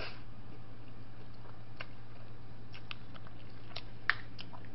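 Close-up mouth sounds of chewing a mouthful of spaghetti, with scattered small wet clicks and a sharper click about four seconds in, over a steady low hum.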